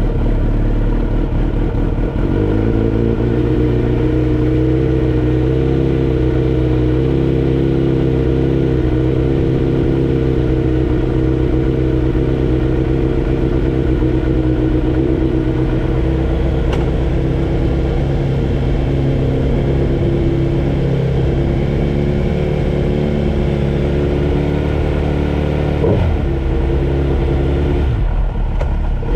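Car engine idling steadily just after being started, heard from inside the cabin; the engine note dips briefly near the end.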